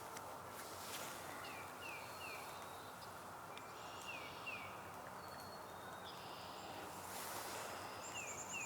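White-breasted nuthatch calling from out of view: short, quick falling notes in twos and threes, about two seconds in, around the middle and again near the end. Near the end another bird adds a brief high trill, over a steady outdoor hiss.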